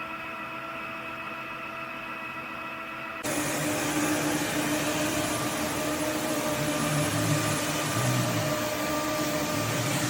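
Roborock F25 GT cordless wet-dry vacuum mop running with a steady multi-tone motor whine. About three seconds in, the sound jumps suddenly to a louder, rougher rushing noise that then holds steady.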